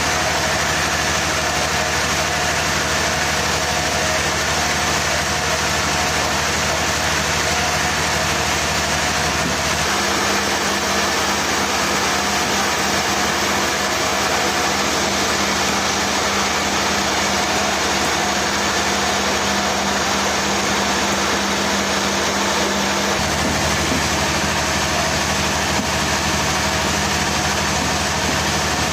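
Machinery engine running steadily with a dense, even noise. Its low hum shifts about ten seconds in and shifts back about twenty-three seconds in.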